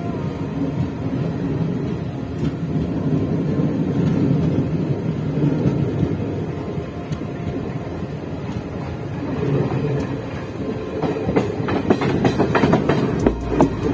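Passenger train running on the track, heard from the open coach door: a steady rumble of the wheels on the rails, with the clickety-clack of wheels over rail joints picking up in the last few seconds.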